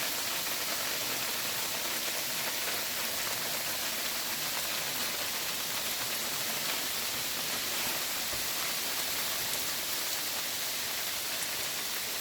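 Hail falling heavily, a steady dense hiss of ice pellets coming down.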